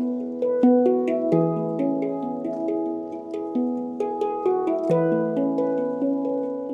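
Handpan being played: a steady stream of struck notes, each with a sharp attack and a long ringing, overlapping tone.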